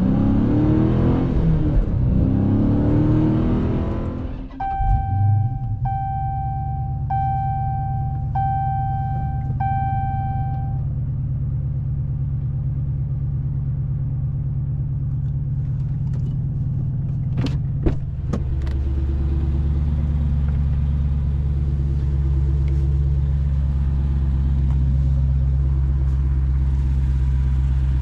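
Dodge Challenger Scat Pack's 392 HEMI V8 running, its pitch rising and falling for the first few seconds before settling to a steady idle. Five evenly spaced chime tones sound over the idle from about five to eleven seconds in. After a couple of sharp clacks about eighteen seconds in, the idle sounds deeper and a little louder.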